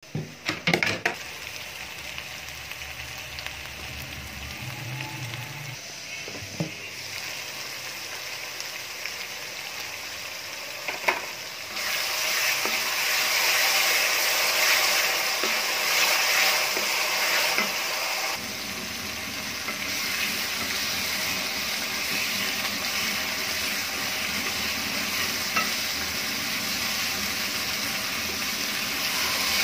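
Onion-tomato masala frying in oil in a metal pot, sizzling while a wooden spoon stirs it, with a few knocks of the spoon against the pot. The sizzle grows louder about twelve seconds in as the masala is cooked down until the oil separates.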